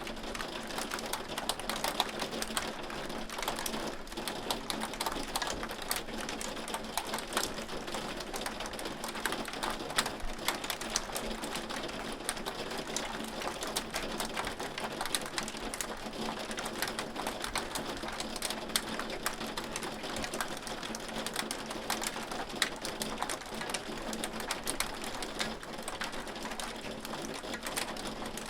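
Hail falling steadily: a dense, irregular patter of small clicks and taps over a continuous hiss.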